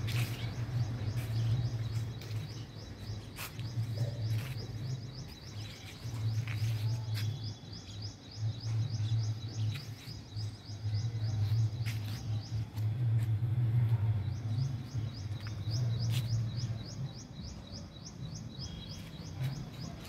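A bird chirping in a fast, even series of short high notes, about five a second. The series breaks off for a few seconds in the middle and then starts again, over a low, uneven rumble that swells and fades.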